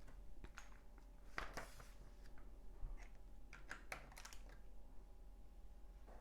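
LEGO bricks clicking and tapping as they are handled and pressed together: scattered light plastic clicks, with a flurry about four seconds in.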